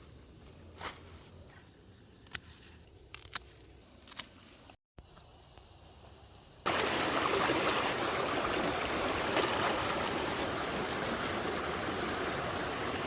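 Insects chirring steadily, with a few sharp knocks. After a brief break, about halfway through, a loud, even rush of flowing stream water takes over.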